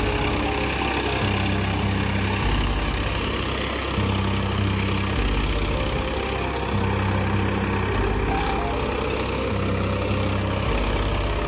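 Farmtrac 60 PowerMaxx tractor's three-cylinder diesel engine running steadily while pulling a plough, with background music carrying a repeating bass line.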